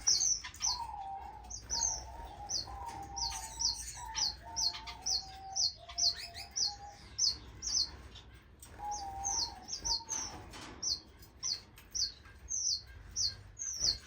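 Tricolor munias calling: short, high chirps repeated about twice a second. For the first two-thirds there is also a lower, wavering call.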